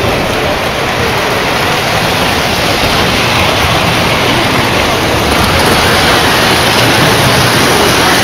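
Steady, loud rumble of several Lionel/MTH-style O-scale model trains running on their track loops, a continuous rushing noise that grows a little louder over the last few seconds.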